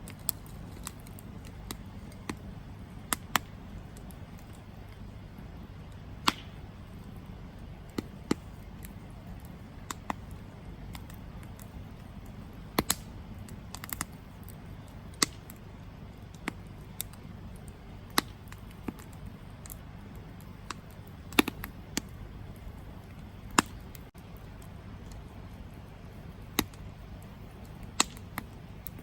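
Campfire burning, with sharp crackles and pops at irregular intervals, roughly one every second or two, over a steady low rush.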